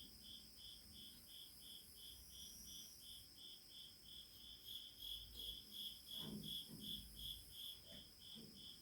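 Insects chirping in a steady, even rhythm of about three chirps a second, over a constant high insect whine. Faint low sounds come in about six seconds in.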